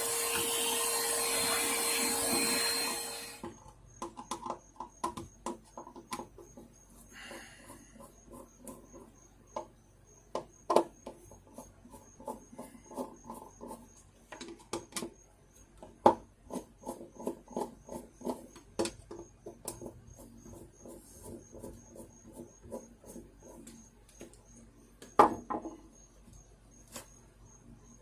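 A vacuum cleaner runs with a steady whine for about three seconds, then shuts off. It is followed by scattered light clicks and knocks of parts being handled while the fan is cleaned.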